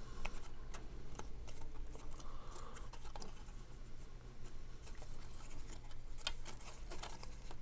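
Faint ticks, taps and light scratching of cardstock being handled, folded and pressed into place, over a steady low hum.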